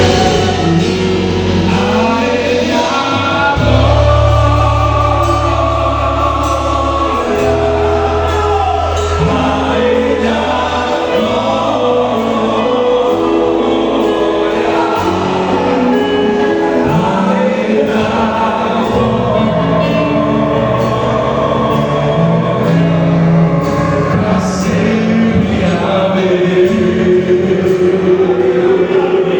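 Christian worship song: several voices singing together over instruments, with long-held bass notes underneath.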